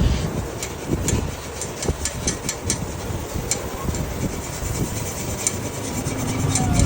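Low, steady engine and traffic rumble with scattered light clicks and taps.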